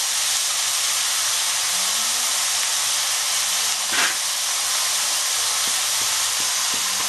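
Chicken pieces sizzling in a little hot mustard oil in a kadai, a steady frying hiss. A short sharp knock of the spatula comes about four seconds in.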